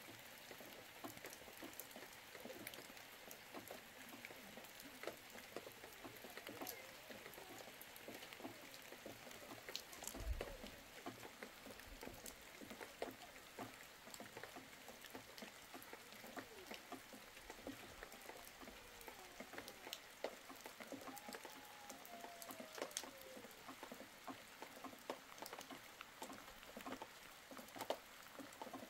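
Faint rain falling, with many small drops pattering and dripping on surfaces. There is a soft low thump about ten seconds in.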